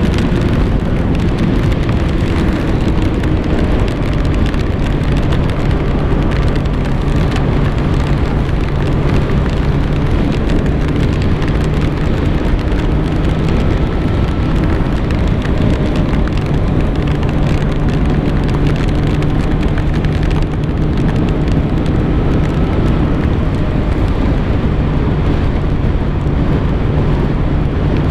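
Kawasaki ZX-6R 636's inline-four engine running at a steady cruising pitch, under a constant rushing noise of wind and rain.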